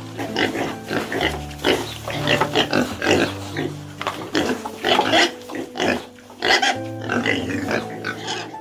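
Domestic pig grunting, many short calls in quick succession, over background music with sustained low notes.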